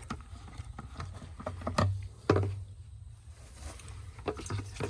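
Fuel sloshing in the tank of a Honda CRF50F as the bike is rocked, with scattered small knocks and clicks from handling the tank and filler cap, the two loudest a little after one and two seconds in. The fuel inside has gone stale.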